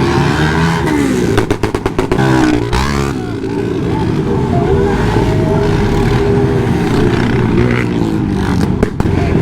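Motorcycle engines running and revving, their pitch rising and falling, with a quick run of sharp cracks about a second and a half in.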